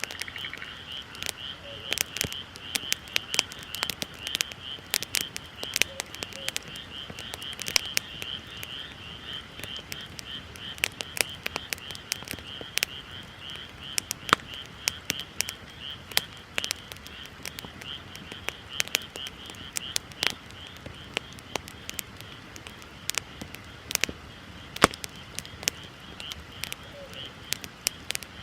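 Wood bonfire crackling with many sharp, irregular pops, over a steady high trill that pulses rapidly and fades out near the end.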